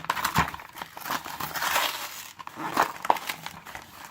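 Foil booster-pack wrapper crinkling and crackling as it is torn open and handled, densest about a second in, with scattered sharp crackles.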